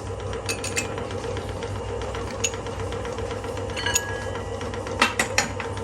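Sharp metallic clinks of steel parts or tools striking one another, some briefly ringing, over the steady hum of a running workshop machine; three come in quick succession near the end.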